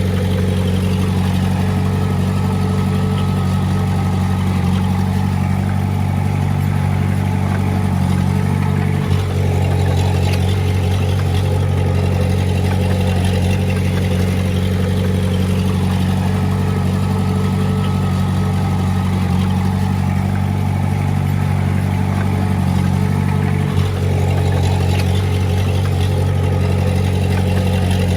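Komatsu D20A bulldozer's diesel engine running steadily under load, with a deep, even drone that dips briefly twice.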